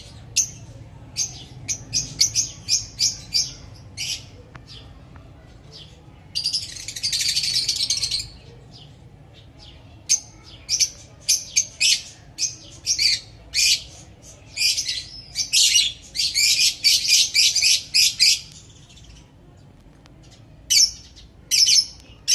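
Lovebirds giving quick runs of short, shrill chirps, with a longer stretch of continuous chatter about six seconds in and another dense run of calls later on.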